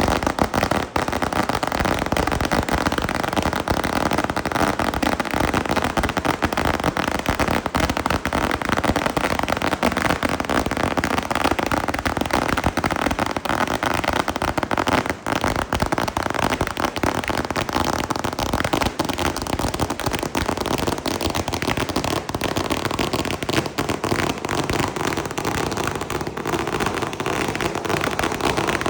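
Fireworks going off in a dense, unbroken barrage of crackling and popping, with no pauses.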